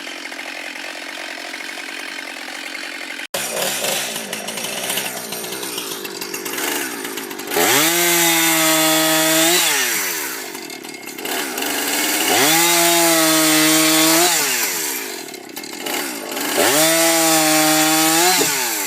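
Chainsaw running at high revs, opened up to full throttle three times for about two seconds each, its pitch climbing briefly before each drop back. The first few seconds are a steadier sound that changes abruptly, like a cut in the footage.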